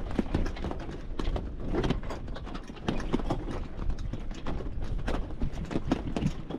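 Irregular knocks and taps, several a second, over a steady low rumble.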